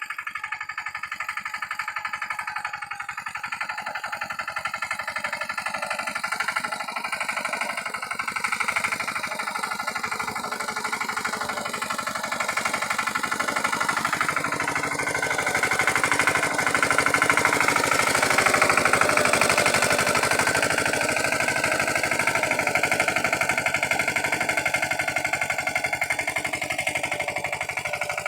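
Pasquali 946 tractor's Lombardini engine running with a fast, even firing beat. It grows louder and harsher a little over halfway through, then eases back slightly.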